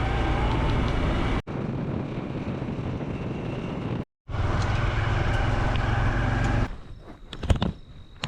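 Honda CT125's single-cylinder four-stroke engine running steadily while riding, in three segments joined by abrupt cuts, one with a brief silence. Near the end the engine sound drops away to quieter scattered clicks and taps.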